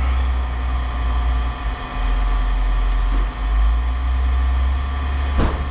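An engine or heavy machine running steadily: a deep rumble with a constant hum, and a short knock near the end.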